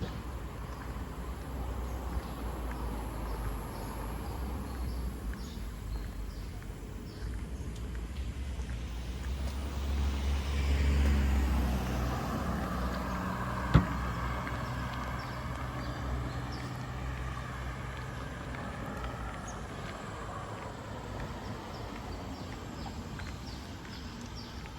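A motor vehicle passing on a road, its engine and tyre noise growing to a peak about eleven seconds in and then fading away. There is a single sharp click about fourteen seconds in.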